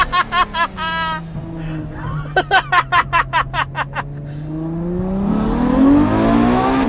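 Ferrari F12 Berlinetta's 6.3-litre V12 with a rapid string of exhaust crackles in the first half, its note sinking as the revs drop and then climbing again near the end.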